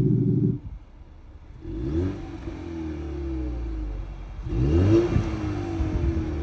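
2021 Ford Mustang convertible with an iXsound active electronic exhaust, revving twice: two blips about 2 s and 5 s in, the pitch rising and falling each time. A loud low rumble cuts off about half a second in, before the revs.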